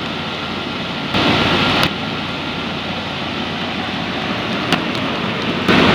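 Vintage Carrier Challenger 38GS 3.5-ton central air-conditioner condensing unit running: a steady whir of its condenser fan with a faint hum. About a second in there is a louder rush of air lasting under a second.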